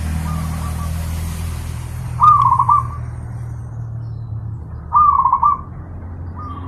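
Zebra doves (perkutut) cooing. Two loud, clear coo phrases come about two and five seconds in, with fainter rapid cooing at the start and near the end, over a steady low hum.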